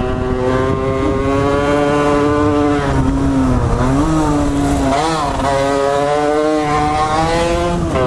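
Motorcycle engine held at high revs while riding, its pitch creeping up, dipping briefly about four seconds in as the throttle eases, then climbing back and holding steady, with wind rumble underneath.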